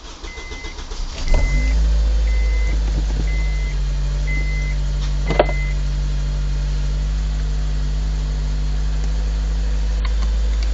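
Cold start of a Honda K20 inline-four engine swapped into a Honda Insight. The starter cranks for about a second and a half before the engine catches, then it settles into a steady idle with no odd ticks or rattles. An electronic beep sounds six times over the first few seconds, and there is a sharp click about five seconds in.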